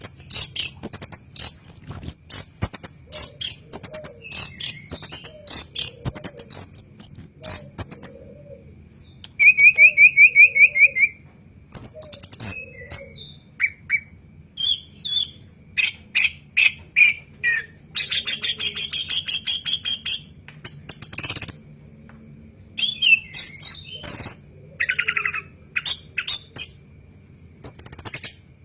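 Orange-headed thrush (anis kembang) singing a loud, fast, varied song of sharp high notes and rapid chatter, broken by a few short pauses, with a quick trill about ten seconds in.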